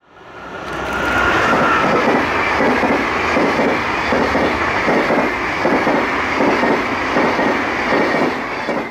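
SBB passenger train passing at speed: a steady rush of steel wheels on rail with a rhythmic clatter of the coaches' wheels, over a thin high ringing tone from the wheels and rails. It fades in over the first second and fades out at the end.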